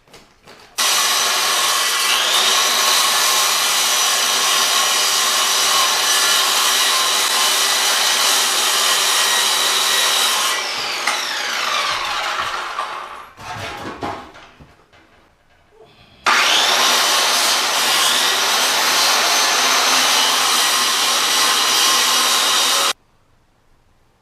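Electric power saw cutting into subfloor wood in two long runs. The first run lasts about ten seconds and winds down with a falling whine; a knock follows, then the saw runs again for about seven seconds and cuts off abruptly.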